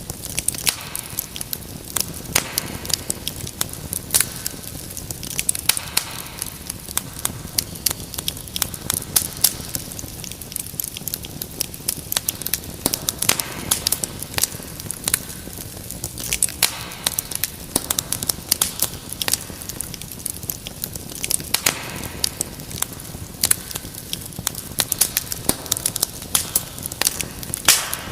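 Wood fire crackling in a fireplace: many sharp, irregular pops and snaps over a soft steady hiss.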